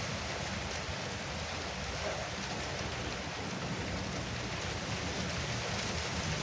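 Heavy rain drumming steadily on a veranda roof.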